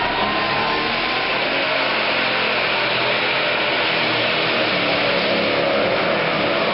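Pro Stock pulling tractor's turbocharged diesel engine running loud and steady.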